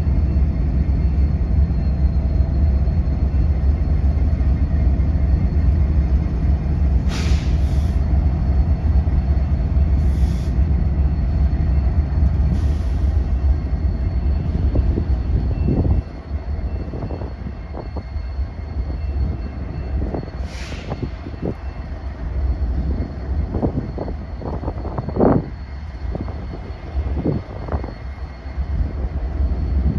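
A train rumbling heavily as it moves along the track, with a few short hisses in the first half. About halfway through the rumble drops, and a run of short clanks and squeaks from the cars follows.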